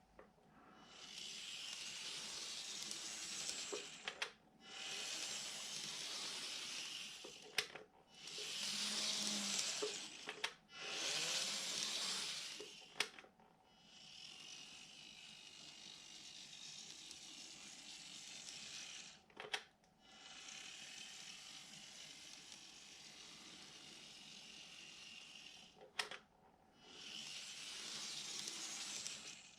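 N-gauge model train, a GreenMax KiHa 75 set driven by a flywheel coreless-motor unit, running on track: a faint steady hiss of wheels and motor in several stretches of a few seconds each. Short breaks with sharp clicks fall between the stretches.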